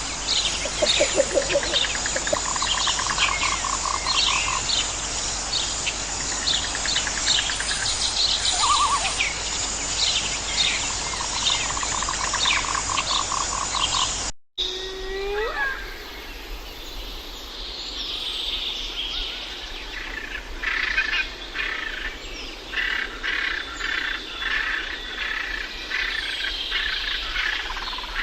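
Many birds chirping and calling, with a rapid pulsing trill repeating underneath. About halfway through, the sound cuts abruptly to a different recording: a few sliding calls, then more bird chirping.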